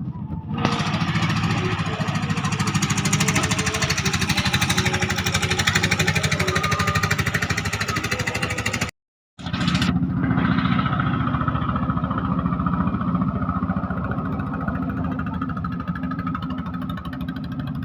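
Engine of a klotok river boat running steadily with a rapid, even beat of firing strokes. A brief cut to silence comes about nine seconds in, and after it the sound is duller.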